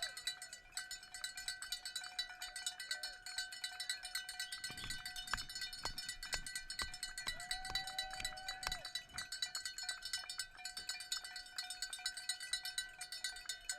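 Cowbell shaken rapidly and without a break, its clanks running together into a continuous ringing. A short held tone sounds over it about eight seconds in.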